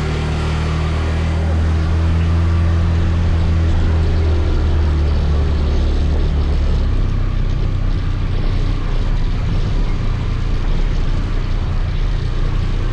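Scooter engine running with a steady low drone under a steady hiss; the engine note changes and drops back about seven seconds in.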